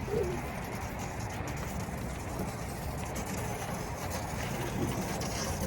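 Steady rushing noise of a snow tube sliding and spinning down a snowy slope, with a low hum underneath.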